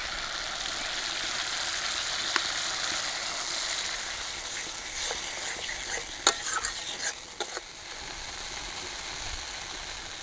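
Cashew and poppy-seed paste sizzling as it goes into hot tomato masala in a metal pan. A metal spatula stirs it, scraping and knocking against the pan several times around the middle, and the sizzle is quieter near the end.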